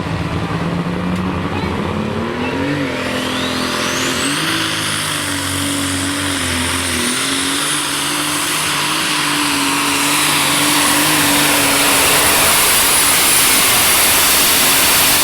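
Turbocharged pulling tractor's engine revving up and running at high RPM, with the turbocharger's whine rising over about two seconds to a high steady pitch and holding there.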